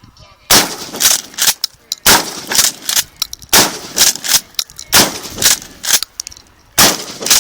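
Mossberg Maverick 88 12-gauge pump shotgun fired rapidly, about five loud blasts roughly a second and a half apart, with smaller sharp cracks between them.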